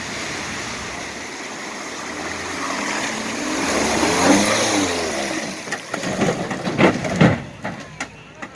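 Vehicle engine revving up and easing off as it drives through a river crossing, with water rushing around it. A few sharp splashes or knocks follow about six to seven seconds in.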